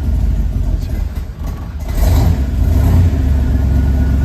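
1966 Corvette's V8 running moments after a cold start on a cold engine. Its level sags about a second in, then picks back up louder about two seconds in and holds steady.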